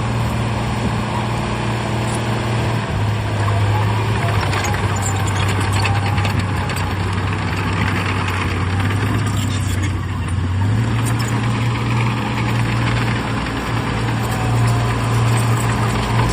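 Heavy diesel engine of earthmoving machinery running steadily under load, its pitch stepping up about three seconds in and shifting again near eleven seconds, with rattling and clattering in the middle of the stretch.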